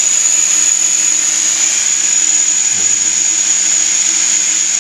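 OKACLEAN-G unit running with its exhaust tube fitted: a steady, high-pitched electric motor whine over a low hum and airflow noise.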